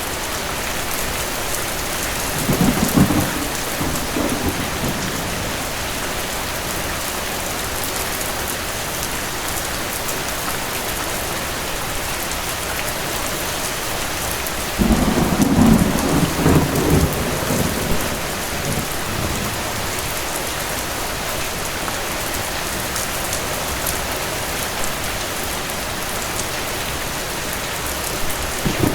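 Steady rain with distant thunder: a short roll about three seconds in, a longer roll about halfway through, and another starting at the very end.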